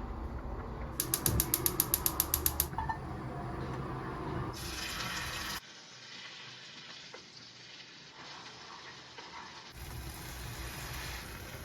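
A quick run of about a dozen sharp, evenly spaced mechanical clicks, like a ratchet being turned, lasting under two seconds. It is followed a few seconds later by a short hiss.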